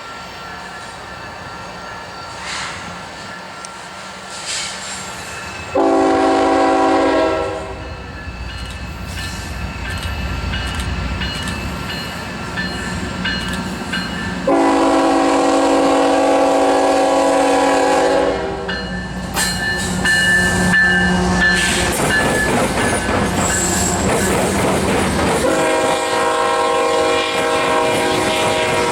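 Freight diesel locomotive's multi-chime air horn sounding three blasts, a short one about six seconds in and then two long ones, the last still going at the end. Between them the locomotive's engine and the wheels on the rails grow louder as the train draws near.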